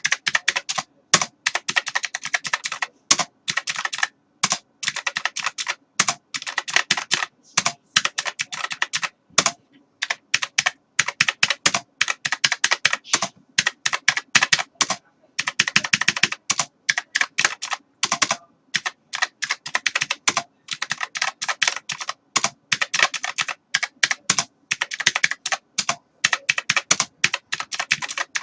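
Typing on a computer keyboard: rapid runs of keystrokes clicking in quick succession, broken every few seconds by short pauses.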